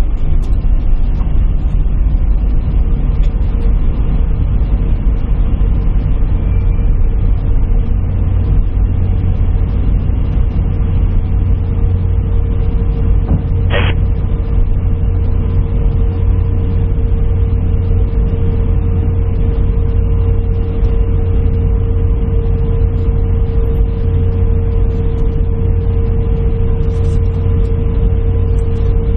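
Steady low rumble of a jet airliner's cabin with the engines running, with a steady hum-like tone over it and a single brief click about 14 seconds in.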